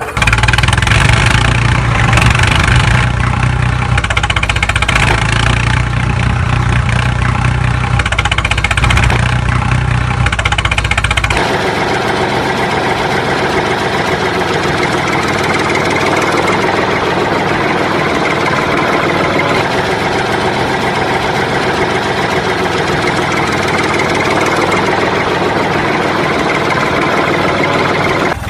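A small engine running steadily. About eleven seconds in, the deep low hum drops away abruptly and the engine carries on with a thinner, higher sound.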